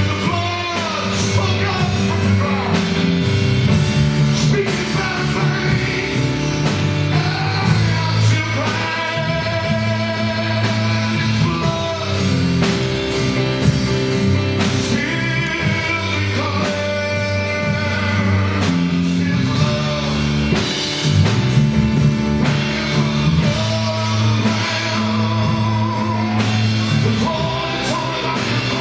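Live gospel band playing: drum kit, electric bass and piano under a sung melody.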